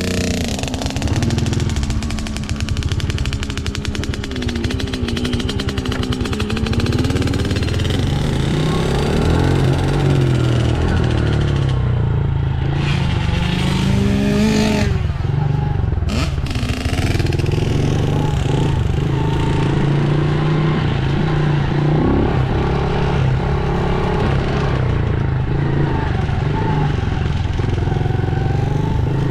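Dirt bike engine running, its pitch rising and falling repeatedly as the throttle is opened and eased off.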